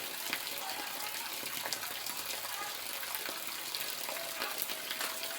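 Steady rain falling: an even hiss of drizzle with scattered sharp drop ticks.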